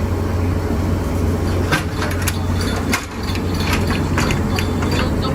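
Steady low hum of submarine machinery, with a quick run of metallic clanks and clicks from about two seconds in as passengers climb down the hatch.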